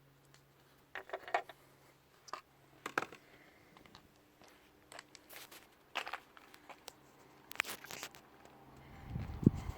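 Scattered light clicks, scrapes and knocks, as of something being handled. Near the end a louder, denser noise with a low rumble builds up.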